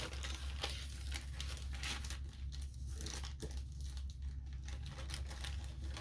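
Crinkling and rustling of packaging being handled, in irregular crackly strokes, over a steady low hum.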